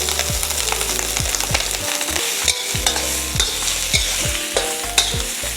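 Day-old rice stir-frying in a carbon steel wok: a steady sizzle with the metal wok spatula clicking and scraping against the wok many times.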